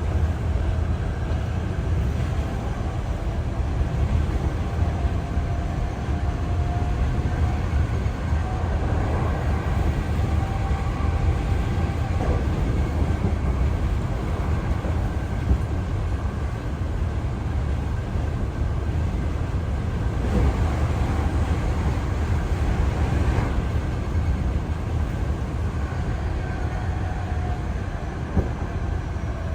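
Running noise of a Hankyu Kyoto Line electric train between stations, heard from inside the car: a steady low rumble of wheels on rails with a faint tonal whine.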